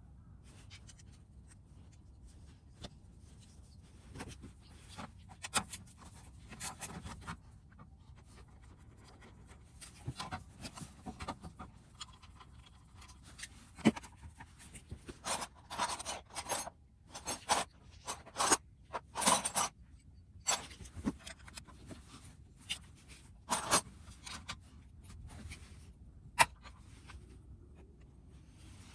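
Hand tools working on a Suzuki Swish 125 scooter's muffler: irregular clicks, short scrapes and brief metal rattles, busiest in the middle of the stretch.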